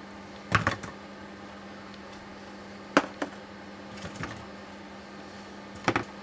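Short, sharp knocks and clinks of hard parts and tools being handled during a steering rack teardown, four spread over a few seconds, over a steady low hum.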